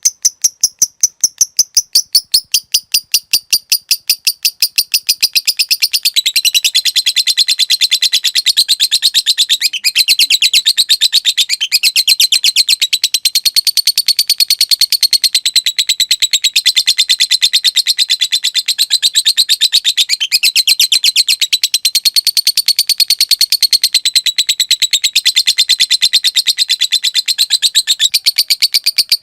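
A fighter lovebird's 'ngetik ngekek panjang' call. It opens with a rapid run of sharp, evenly spaced ticks, then about six seconds in breaks into a long, unbroken high chattering trill that carries on at a fast steady rate.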